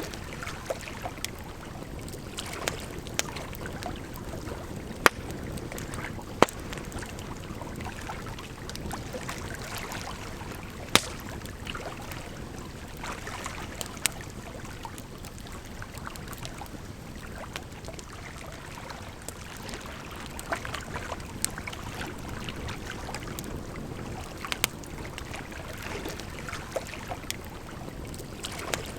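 Campfire crackling with irregular sharp snaps and a few louder pops, over a steady rush of running water.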